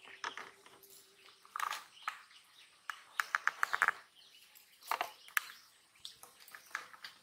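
Birds chirping in short scattered calls, with a quick run of about eight chips around the middle.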